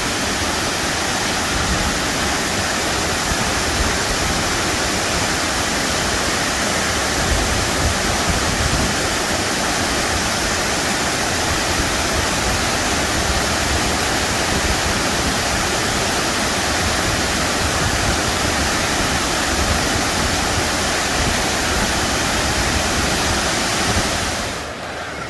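Waterfall heard close up at its base: a steady, loud rush of falling water, with a gusty low rumble of wind on the microphone. The sound drops away abruptly just before the end.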